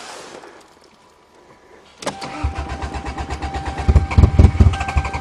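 Toyota GTS starter cranking the cold engine in a fast, even rhythm with a steady whine, starting suddenly about two seconds in and getting louder near the end. The engine does not catch: a cold start on a car with no exhaust, which the owner says is always hard to start in the cold.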